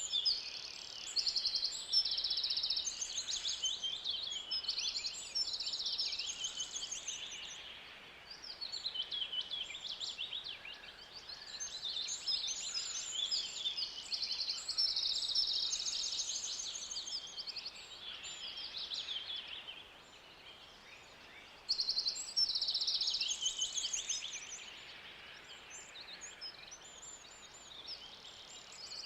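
Forest ambience dominated by many birds singing and calling at once, high-pitched trills and chirps overlapping, with brief lulls where the chorus thins, over a faint steady background hiss.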